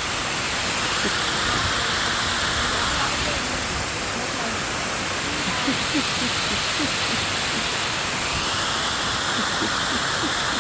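Steady rush of falling water from a garden water feature, with faint voices in the background.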